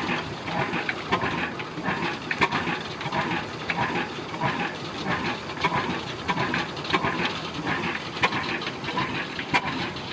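Old Ruston Hornsby stationary diesel engine running and driving a flour mill (atta chakki): a steady rhythmic beat over a rushing, hissing noise, with sharp clicks now and then.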